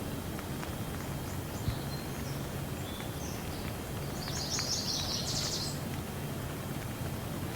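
Steady rain with scattered drops ticking, and a bird chirping over it, with a quick high trill around the middle.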